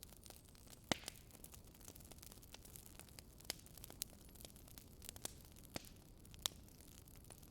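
Wood fire crackling quietly: scattered sharp pops, about one a second, the loudest one about a second in, over a faint steady hiss.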